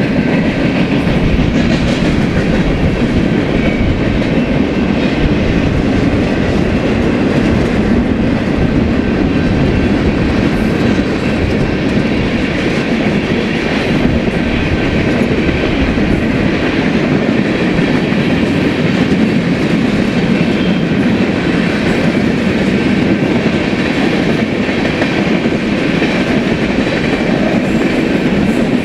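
BNSF freight train rolling past: a steady, loud rumble of steel wheels on rails, with clickety-clack from the railcars.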